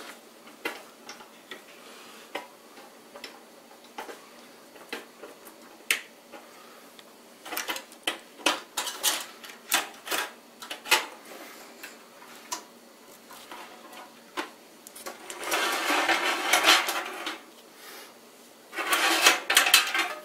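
Hands working cables and plug-in connectors inside a computer case: scattered small plastic clicks and knocks, with two short stretches of busier clattering and rustling near the end.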